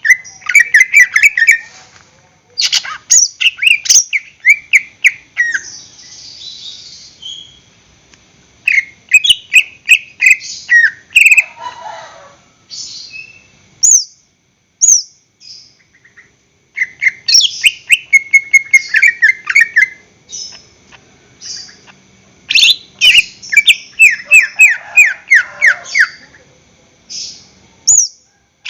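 Cucak ijo (green leafbird) singing loud phrases of rapid, sweeping chirps and trills, in bursts of a second or two with short pauses between them.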